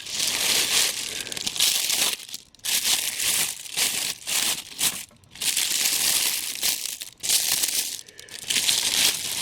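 Crinkly packing material being pulled off and crumpled by hand as a boxed statue is unwrapped, in long crackling stretches with a few brief pauses.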